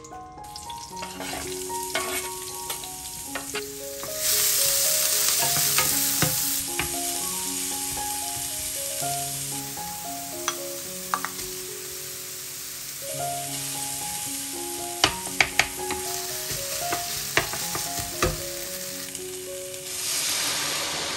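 Diced onion frying in hot olive oil in a nonstick pan: a steady sizzle that begins about four seconds in, with a wooden spoon clicking and scraping against the pan as it is stirred. Near the end the sizzle swells again as brandy is poured into the hot pan. Soft melodic background music plays throughout.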